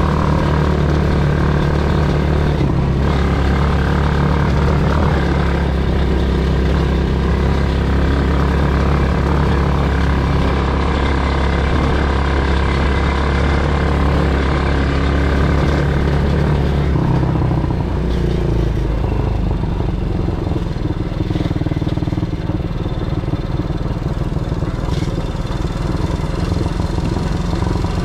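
Quad bike engine running steadily under way, its note shifting about two-thirds of the way through.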